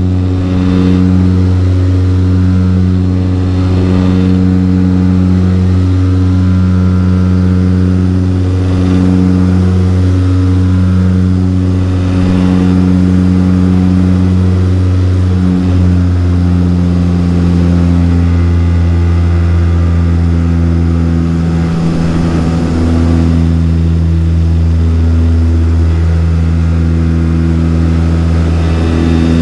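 Saab 340B turboprop engine and propeller droning steadily, heard from a cabin seat right beside the propeller, with a deep, even throb. The tone shifts slightly about halfway through.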